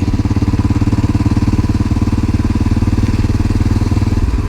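Honda NX650 Dominator's single-cylinder four-stroke engine running steadily at low revs, its pitch holding level.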